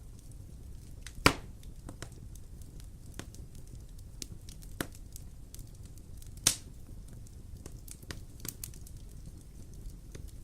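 Wood fire burning in a fireplace: a steady low rumble with scattered small crackles and two loud sharp pops, one about a second in and one past the middle.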